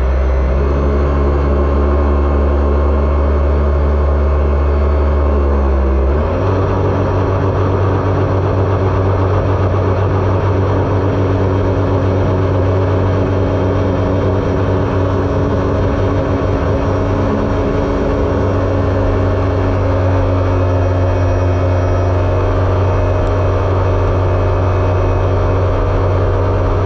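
Jet ski engine running steadily at speed, its pitch shifting slightly about six seconds in.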